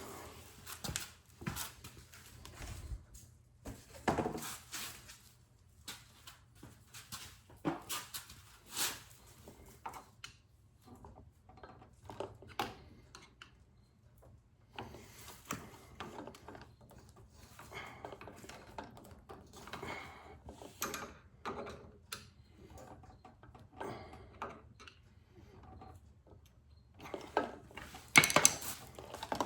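Irregular clicks, knocks and scraping as a snowblower's engine cover is worked and pried loose by hand, with a louder flurry of knocks near the end as it comes free.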